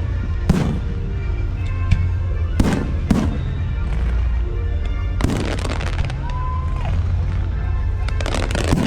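Fireworks bursting in a string of sharp bangs, with a burst of crackling about five seconds in and more bangs near the end, over music.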